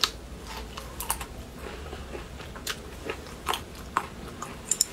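A person chewing a mouthful of food close to the microphone: irregular short, crisp crunching clicks.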